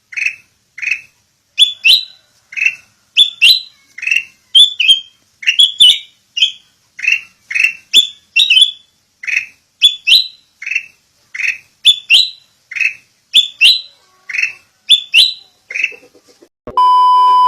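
A bird calling over and over, short falling notes, some doubled, nearly twice a second. About a second before the end the calls stop and a loud, steady electronic tone starts.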